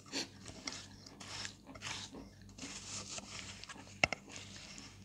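Close-up wet chewing and mouth sounds of someone eating a chalk paste, with a sharp clink of a spoon against a glass bowl about four seconds in.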